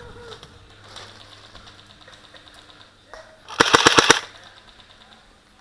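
Airsoft electric rifle firing one short full-auto burst of about seven rapid shots lasting about half a second.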